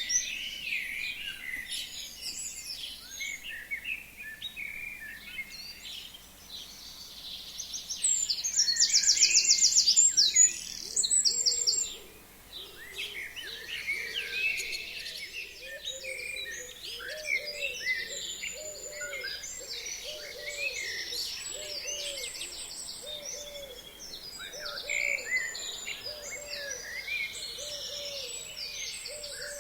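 A chorus of forest songbirds singing at once, with a loud, fast trill right at the start and again about eight seconds in. From about fifteen seconds in, a low hooting call repeats about once a second beneath the chorus.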